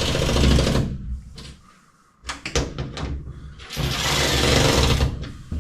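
A cordless power driver running in two short bursts, one ending about a second in and another near the end, with a few sharp clicks in between, as it lightly snugs the nuts on cab roof marker lights.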